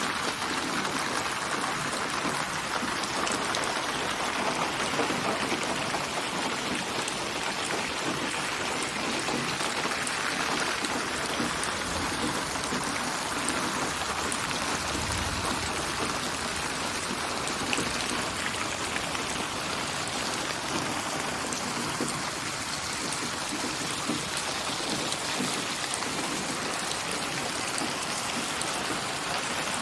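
Steady rain falling, with many fine drops pattering on surfaces. This is a synthesized rain ambience built from rain samples and spatialized for headphones.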